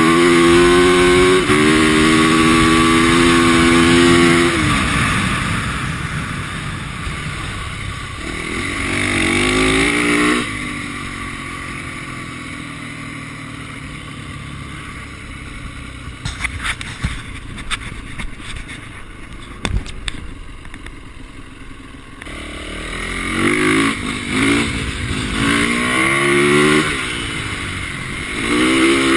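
450cc four-stroke single-cylinder dirt bike engine revving hard, then dropping off the throttle about four seconds in, with a short rev near ten seconds. After a quieter stretch with scattered clicks, it revs up in short bursts and climbs back to high revs near the end.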